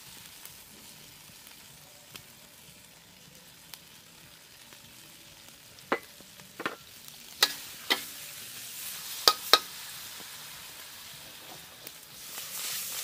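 Lobsters sizzling in a hot steel wok, with a metal spatula clinking sharply against the wok about half a dozen times midway. The sizzle grows louder near the end.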